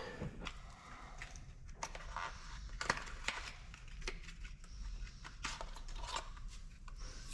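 Scattered light clicks and taps from small parts being handled at a workbench, over a faint low hum.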